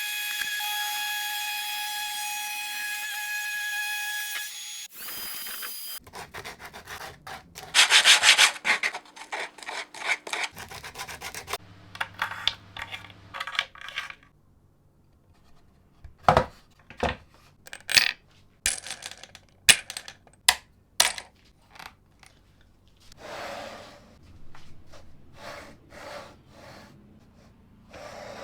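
Wooden workshop parts being handled and fitted by hand: short rubbing and sliding scrapes of wood with scattered knocks and clicks. A steady pitched tone sounds for the first few seconds and then stops.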